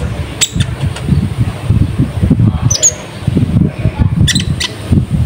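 A few short, sharp, high bird chirps and clicks from a small songbird, the konin lure call or wild konin answering, spaced a second or two apart over a strong, uneven low rumble.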